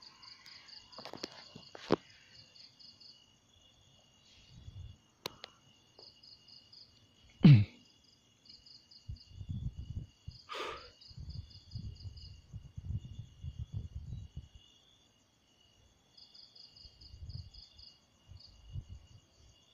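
Insects chirping in repeated short pulsed trains over a steady high trill. A sharp knock about seven and a half seconds in and bouts of low rumbling come and go underneath.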